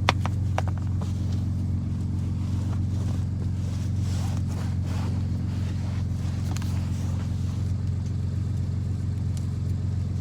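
Steady low hum of an engine or motor running at a constant speed, with a sharp click right at the start and a few faint clicks over it.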